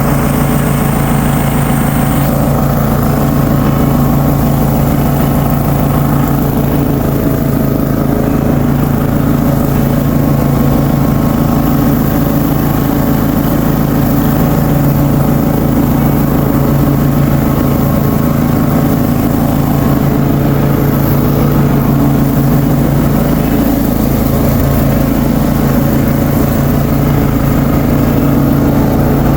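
Ride-on lawn mower engine running steadily at a constant speed, with no change in pitch.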